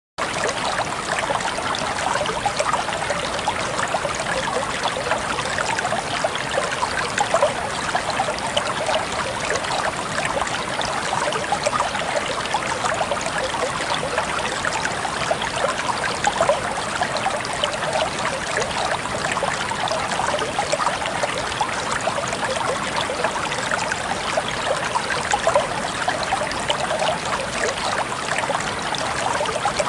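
Water running steadily in a stream, trickling and gurgling.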